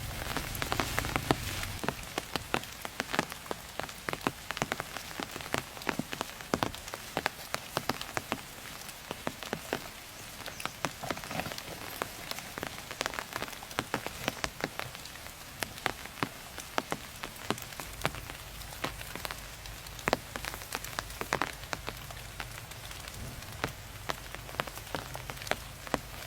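Rain falling steadily, a soft hiss with many scattered sharp drop hits.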